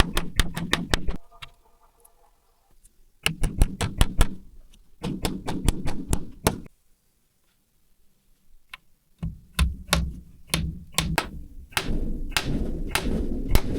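Rapid knocking on wood, several sharp strikes a second, in bursts with short pauses between them.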